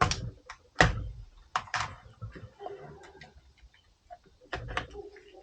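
Irregular clicks and knocks of metal parts and tools being handled during work on a CV axle, a few sharp knocks standing out among lighter clinks.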